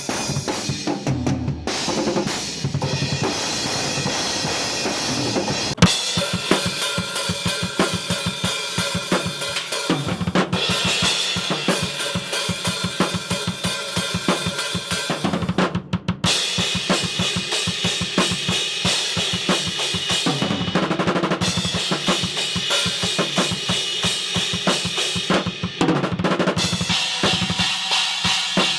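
Acoustic drum kit played in fast, busy patterns: rapid kick and snare strokes under washing cymbals, with brief breaks between sections.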